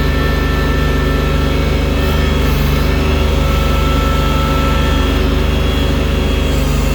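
Engine of a tractor fitted with a loader bucket, running steadily while moving heavy snow.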